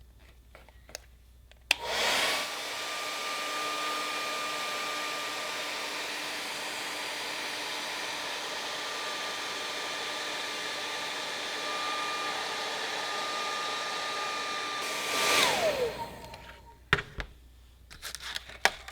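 Handheld hot-air blower switched on and run steadily with a fan whine while heating the freshly glued seam of a plastic repair to strengthen the adhesive bond. It winds down with a falling whine near the end, followed by a few small handling clicks.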